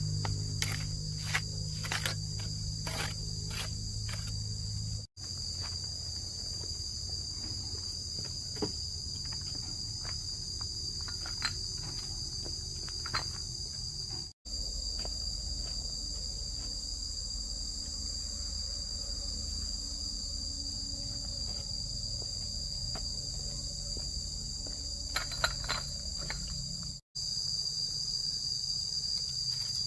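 Steady, high-pitched chorus of insects trilling without a break. A few light clicks and knocks sound in the first few seconds and again near the end.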